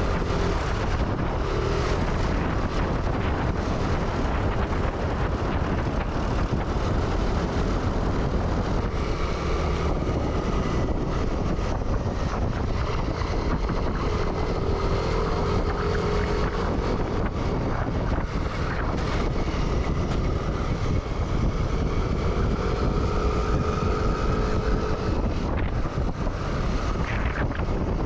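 Motorbike ride: steady engine and road noise with wind buffeting the microphone.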